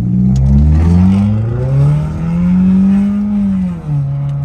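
Four-cylinder car engine accelerating hard under load, its revs climbing, dropping at a gear change about a second and a half in, climbing again, then falling sharply near the end.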